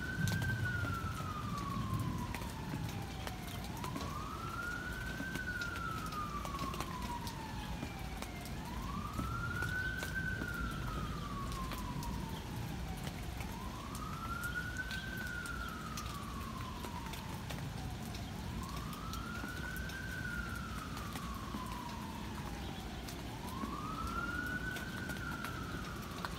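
A siren wailing in a slow, steady cycle, its pitch climbing quickly and then sliding down over about five seconds, repeated about six times. A steady hiss of rain sits underneath.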